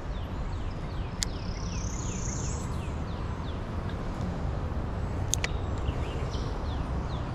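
A songbird repeating short downslurred whistled notes, about two a second, over a steady low rumble, with two sharp clicks.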